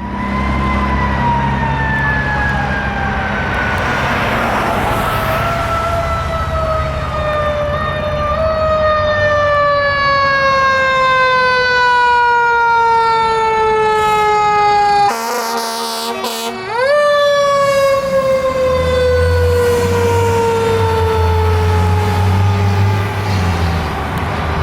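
2004 Pierce Quantum fire engine's siren sounding as it responds. The wail falls slowly in pitch for about fifteen seconds, is cut by a horn blast of a second and a half, then quickly rises back up and slowly falls again, over a low engine rumble.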